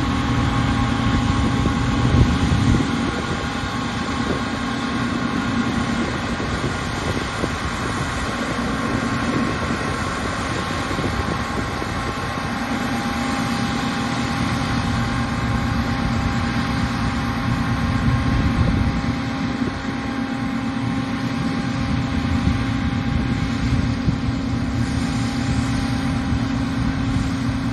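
Combine harvester running steadily at work: an even engine and machinery hum with several steady held tones.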